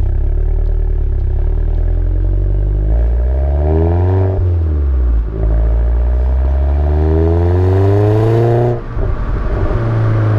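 Alfa Romeo Giulietta QV's 1750 TBi turbocharged four-cylinder breathing through a Supersprint exhaust with the middle silencer removed, heard from inside the cabin as the car accelerates. The engine note climbs, drops at a gear change about four and a half seconds in, climbs again and drops at another shift about nine seconds in. It has a slightly deeper note but stays civilized, at the limit of what is acceptable in the cabin and close to a stock car's sound.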